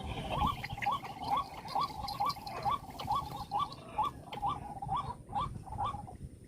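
White-breasted waterhen (ruak-ruak) calling: a steady run of short, rising 'kruak' notes, about two a second, that stops about six seconds in.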